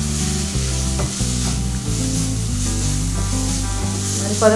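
Prawns frying with onion and tomato in a kadhai, sizzling steadily as a spatula stirs them, with a couple of knocks of the spatula on the pan in the first second or so. Low background music runs underneath.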